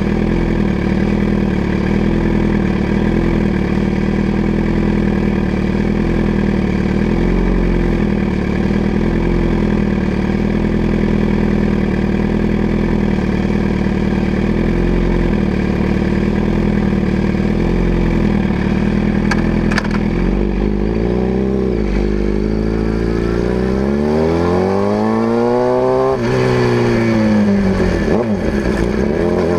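2011 Suzuki GSX-R750's inline-four idling steadily through an unbaffled M4 GP slip-on exhaust with the catalytic converter removed. About twenty seconds in, the engine note starts rising and falling repeatedly as the bike is revved and ridden off.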